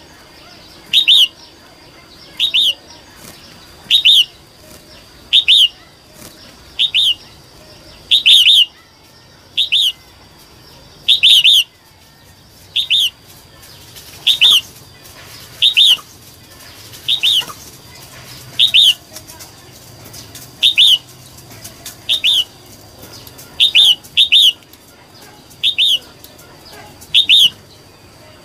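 Female red-whiskered bulbul calling: a short, sharp call repeated at a steady pace about every second and a half, now and then twice in quick succession. It is the female call that bird keepers use to stir male bulbuls into calling.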